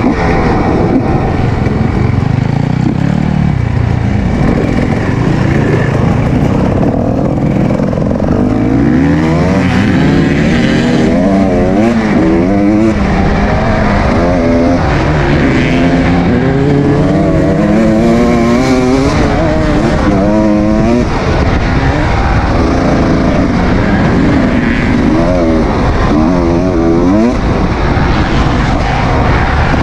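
Kawasaki KX250 dirt bike engine revving hard under load, its pitch climbing and dropping over and over with throttle and gear changes.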